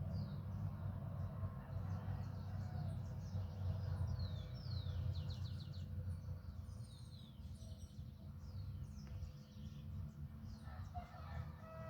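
Small birds chirping in short, high notes that fall in pitch, with a quick run of repeated chirps about four to five seconds in, over a steady low rumble.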